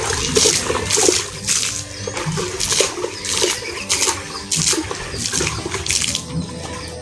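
Water splashing in repeated short gushes, about two a second.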